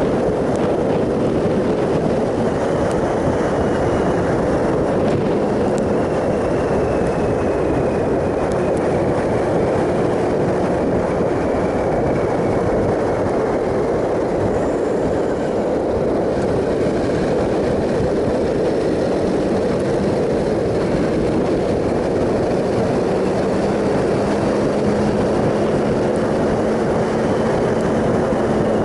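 Triumph Sprint ST 1050's three-cylinder engine pulling at a steady cruise, under a constant rush of wind noise on the microphone. The engine note rises gently near the end.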